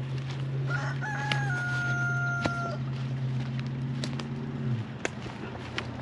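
A rooster crowing once, a long held call about a second in, over a steady low hum that stops near the end, with a few sharp clicks.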